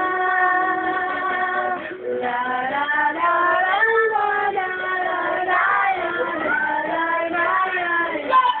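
A high voice singing a wordless-sounding melody: it holds one long steady note for about the first two seconds, then moves through sliding, wavering notes.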